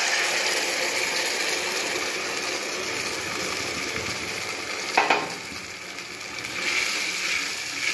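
Boiled biuli (urad) dal sizzling in hot spiced oil in a karahi as it is stirred with a spatula, with a single sharp knock about five seconds in.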